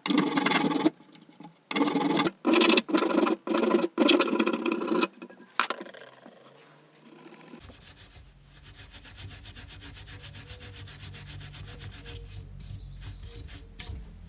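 Hand sanding of a hammer under restoration: about six strong back-and-forth rubbing strokes of abrasive over roughly five seconds, then fainter rubbing. After a cut about halfway through there is a faint low hum with fast, faint ticking.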